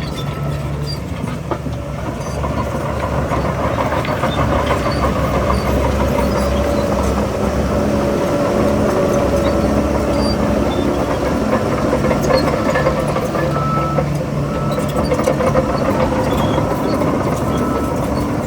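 Heavy diesel engine of earthmoving machinery running steadily, growing louder about three to four seconds in and then holding under load.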